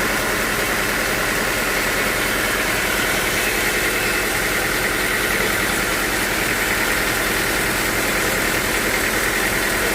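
Sawmill machinery running steadily, a continuous mechanical drone with no breaks or changes.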